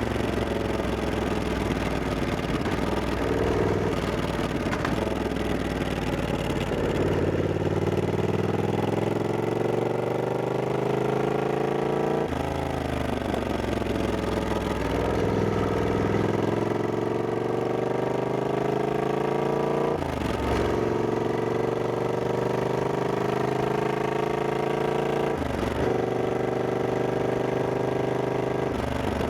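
Triumph Scrambler 1200X's 1200 cc parallel-twin engine under way. It climbs in pitch as the bike pulls, and the pitch breaks and drops at gear changes about twelve, twenty and twenty-six seconds in.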